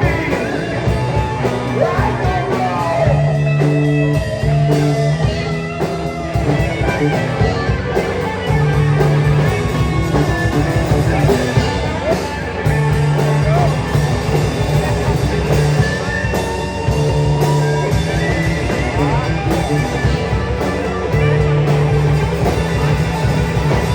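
A rock band playing live: electric guitars and bass over drums, with held bass notes that change every second or so.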